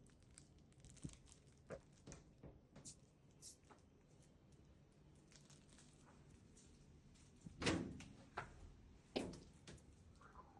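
Quiet room with scattered soft taps and knocks, and two louder thumps about eight and nine seconds in.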